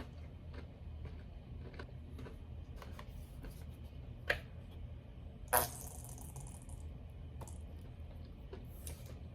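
Close-miked chewing of dry, crispy chicken nuggets: scattered small clicks and crunches, with two louder crunches about four and five and a half seconds in, over a low steady hum.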